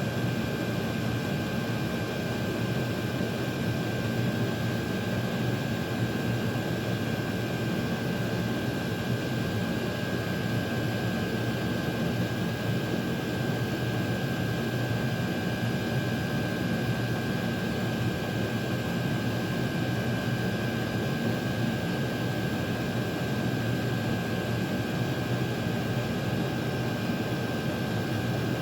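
Chinese diesel air heaters running: a steady blower and combustion hiss with a thin constant whine.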